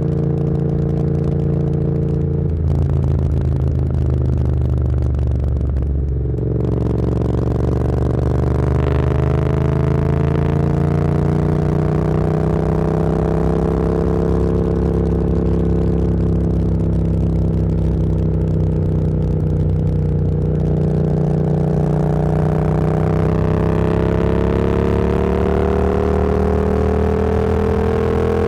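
Motorcycle engine under way, shifting up twice in the first seven seconds, then pulling steadily with its note slowly rising and easing.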